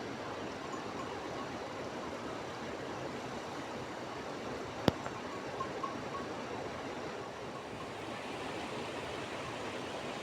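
Steady rushing noise, with one sharp click about halfway through.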